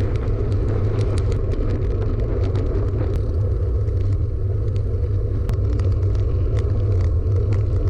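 Steady wind and road rumble on a bike-mounted action camera's microphone while cycling at speed, with many small scattered clicks and rattles.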